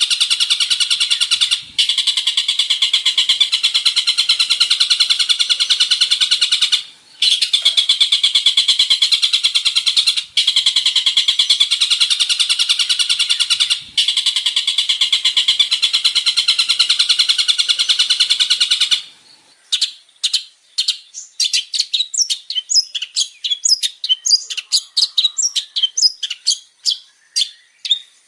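Long-tailed shrike (cendet) singing loudly: a dense, rapid, unbroken chattering song with four brief pauses, changing about two-thirds of the way through to a string of separate sharp, quick notes.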